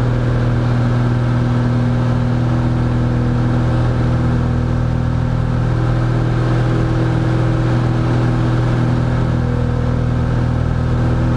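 Cessna 172F's six-cylinder Continental O-300 engine and propeller running steadily at climb power just after takeoff: an even, unchanging drone with a strong low hum.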